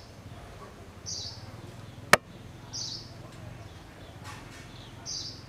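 A bird's short high chirp, repeated three times at intervals of about two seconds. A single sharp click a little after two seconds in is the loudest sound, over a low steady background hum.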